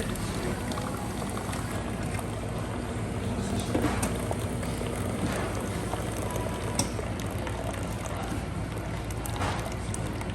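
Steady low rumbling noise with a few faint, brief higher sounds.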